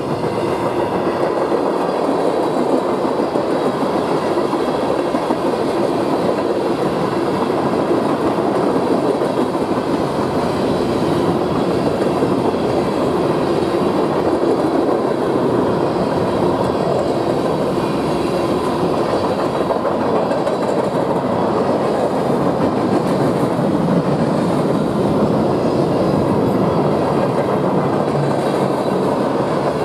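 Cars of a manifest freight train rolling steadily past at speed: a continuous rumble and clatter of steel wheels on the rails, with a few faint steady tones riding over it.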